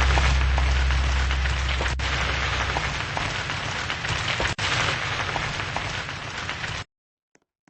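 Heavy rain pouring steadily, with a deep wind rumble underneath; it cuts off suddenly near the end.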